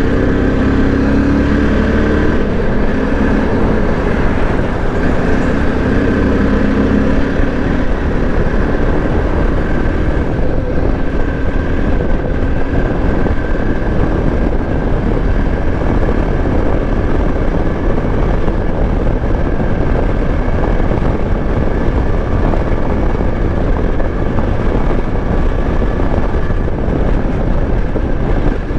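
Motorcycle running on the road at steady speed: a continuous engine drone mixed with wind rushing over the microphone.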